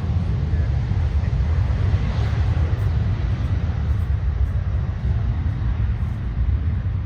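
Jet airliner taking off, its engines a steady, loud rumble that swells slightly about two seconds in.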